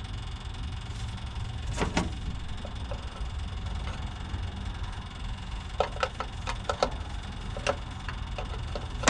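Electric fuel pump running with a steady low hum as it primes a Detroit Diesel 6-71's fuel system, with scattered light clicks and knocks from work on the engine about two seconds in and again in a cluster near the end.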